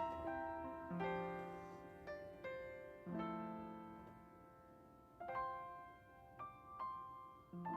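Slow piano music: chords struck every second or two and left to ring and fade.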